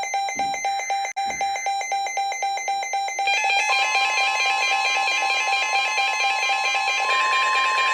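Weather alert radios sounding their alarms: rapid beeping about four times a second, joined about three seconds in by further warbling alarm tones. Shortly after that a steady NOAA Weather Radio warning alarm tone comes in, the signal that a new warning is about to be read.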